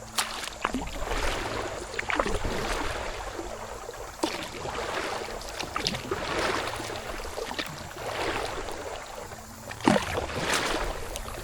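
Kayak paddle strokes splashing and swishing through water, several in a row, with a few sharp knocks, the loudest about ten seconds in.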